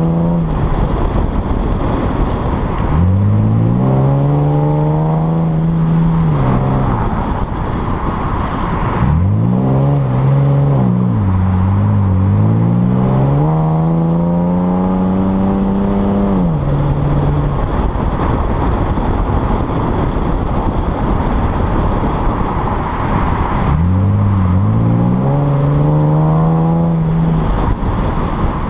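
Chevrolet Camaro engine and exhaust, heard from a camera mounted low on the car's side. The engine rises in pitch three times as it pulls hard out of corners and falls away as the driver lifts off between them. A steady rush of wind and road noise runs underneath.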